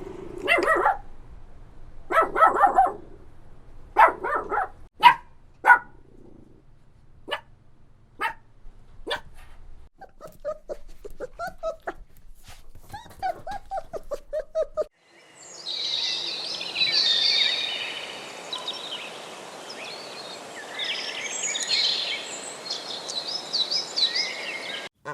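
A dog barking several times, then softer short yips. About two-thirds of the way through, the sound switches abruptly to high-pitched chirping and peeping over a hiss of background noise.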